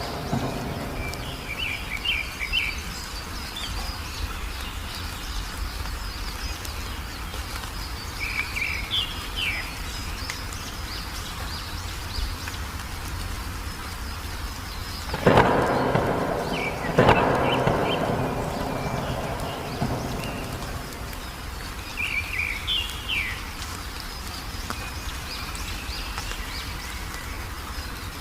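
Steady rain with bird chirps in short phrases every few seconds. Two sharp thunder cracks about halfway through, each rolling off over a few seconds.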